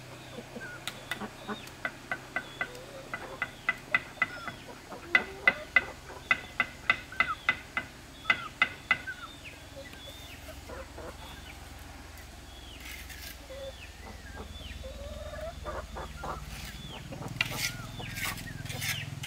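Chicken clucking: a run of short, sharp clucks about two or three a second for several seconds, then a few scattered clucks. Near the end come some short scraping knocks.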